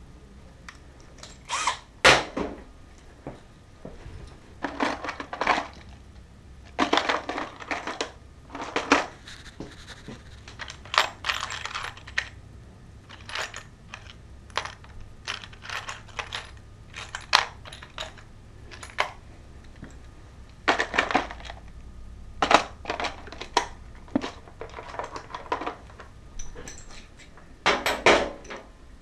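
Irregular clinks, rattles and knocks of hard objects being handled, spaced unevenly with short gaps between them.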